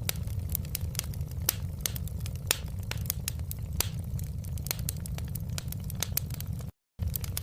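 Wood fire crackling in a fireplace: a steady low rumble under many sharp crackles, several a second. The sound cuts out completely for a fraction of a second near the end.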